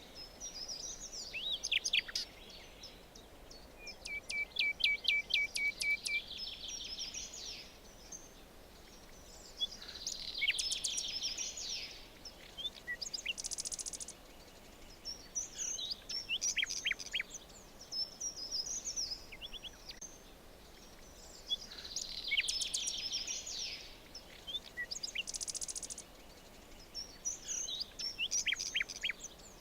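Forest birds singing, with song phrases every few seconds from more than one bird, one of them a rapid trill of repeated notes, over a faint steady background hiss.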